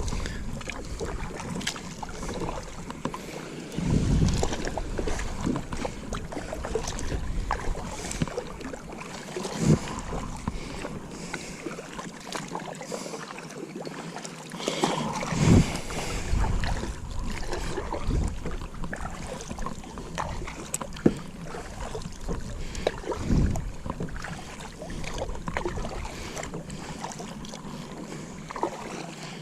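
Kayak on the water: water splashing and lapping against the plastic hull, with wind rumbling on the camera microphone. A few sharp knocks against the boat are spread through.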